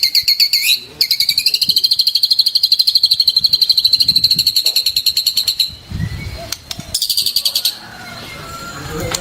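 A songbird singing rapid trills of fast repeated high notes. The longest runs about five seconds, and a shorter burst comes near the end.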